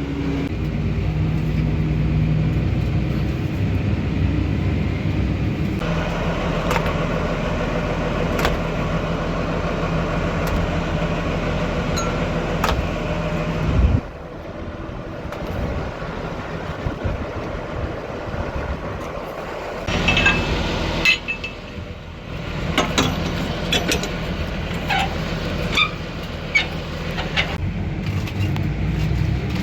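Farm tractor engine running steadily. About halfway through there is a thump and the engine sound drops. It is followed by scattered metal clinks and knocks of implement hitch work, as the manure spreader is unhooked.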